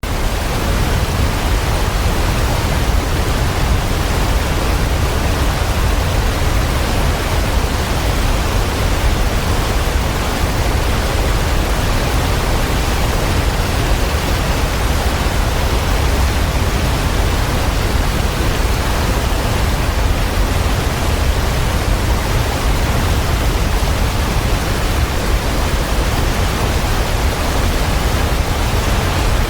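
Waterfall: a steady, unbroken rush of falling water, deepest and strongest in the low rumble.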